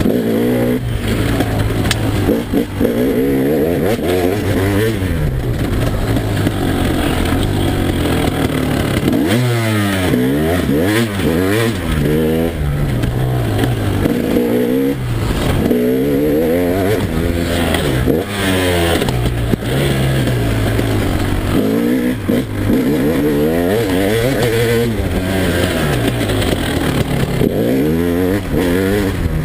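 KTM EXC 300 two-stroke enduro engine revving hard, its pitch climbing and dropping back over and over as the bike is ridden through the gears and corners.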